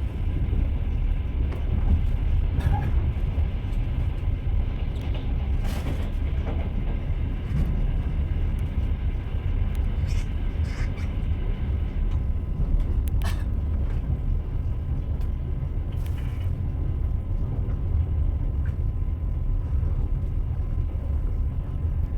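Moving train: a steady low rumble of wheels on the rails with a few scattered sharp clicks and clacks.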